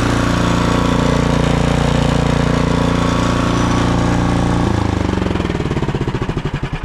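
Gas snowblower engine running steadily at high speed, then dropping sharply about five seconds in and winding down, its firing pulses slowing.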